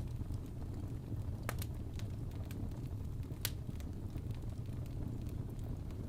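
Wood fire burning with a steady low roar and scattered sharp crackles and pops, the loudest pop about three and a half seconds in.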